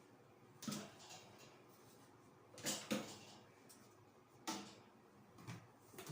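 A few light clacks and knocks of household objects being handled and set down, two close together about halfway through.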